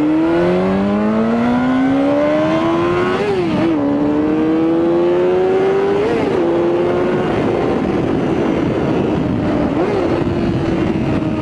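Honda CBR600RR sport bike's inline-four engine pulling away under acceleration, its pitch rising for the first few seconds, with brief dips at gear changes about three, six and ten seconds in, then running at a nearly steady pitch, over a rush of wind noise.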